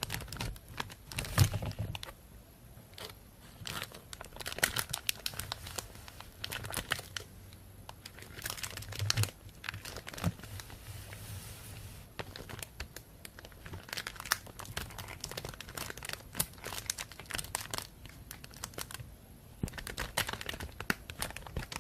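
Thin plastic bag crinkling and rustling in irregular handfuls of crackles, with short quieter pauses between them.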